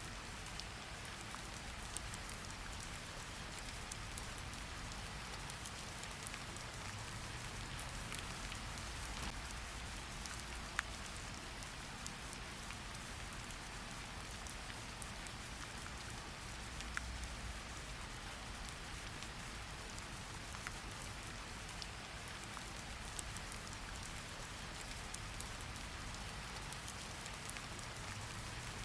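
Steady rain falling, a constant hiss with many small individual drop taps, one a little louder about eleven seconds in, over a faint low rumble.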